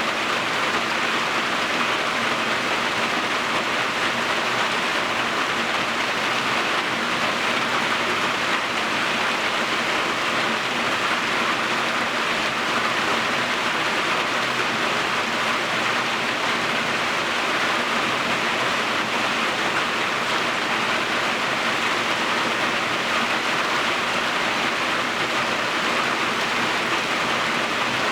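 Steady rain falling, an even hiss that stays constant throughout.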